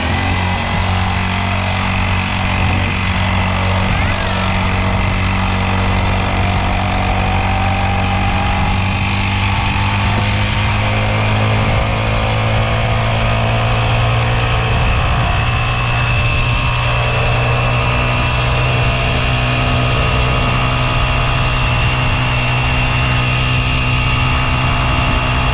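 Small dirt bike engine running steadily under way, its pitch creeping slowly upward.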